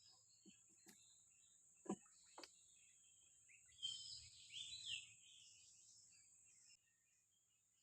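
Faint wild-outdoor ambience: a steady high insect drone with scattered bird chirps, a few soft knocks in the first two and a half seconds, and a louder flurry of bird calls around four to five seconds in. The insect drone cuts out near the end.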